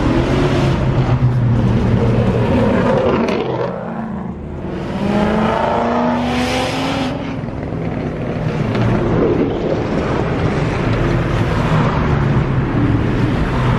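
A car engine at high revs, its pitch rising and falling repeatedly, with a brief drop in level about four seconds in.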